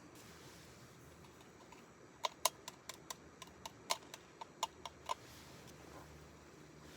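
A quick, irregular run of about a dozen sharp clicks or light taps over about three seconds, starting a little over two seconds in.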